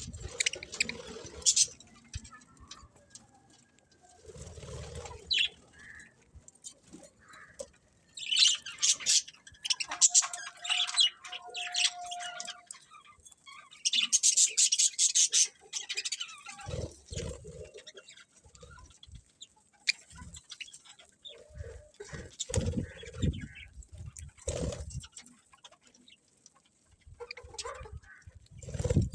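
Pet budgerigars chirping and chattering in several bursts of rapid high twittering, with brief warbled notes and a few low thuds between the bursts.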